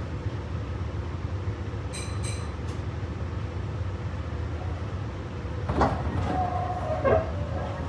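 Meitetsu 3500 series electric train running, heard from inside the passenger car: a steady low rumble, with two short high pings about two seconds in and a few heavier knocks near the end.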